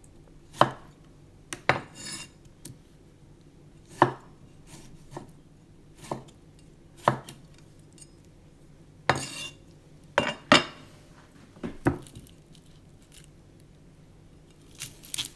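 Kitchen knife striking a chopping board in single, separate strokes about every second or two, slicing a tomato.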